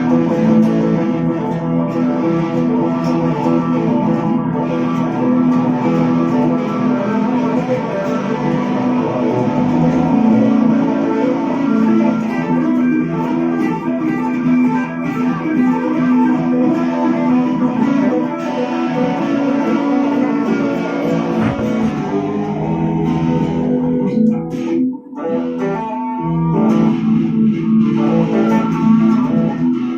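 Guitar improvising a blues, with notes played continuously and a brief dip in level about 25 seconds in.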